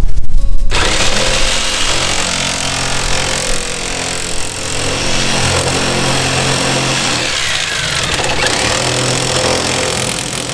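Power saw trimming a piece of board that was cut too long, a steady loud cut that starts less than a second in.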